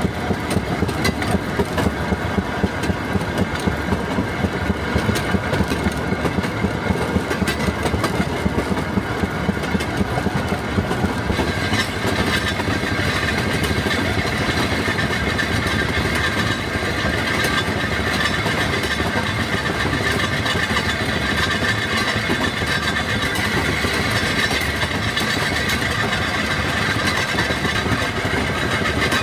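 Railroad speeder's small engine running as the motorcar travels along the rails, with fast regular beats. About twelve seconds in it settles into a steadier sound with a higher hum over it.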